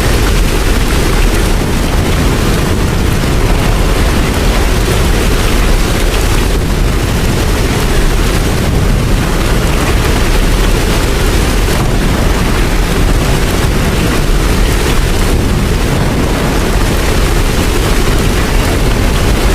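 Steady, loud rain with a heavy low rumble underneath, unbroken and without any distinct strikes or tones.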